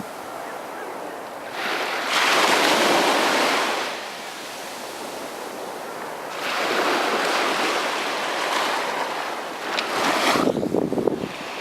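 Sea waves breaking on the beach: three surges of rushing surf that swell and fade, the last, about ten seconds in, a choppier crash.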